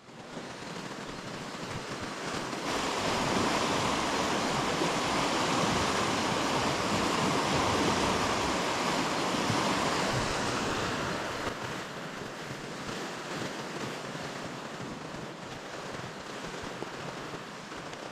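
Rushing river water, a steady roar that grows louder a few seconds in and eases off somewhat after about eleven seconds.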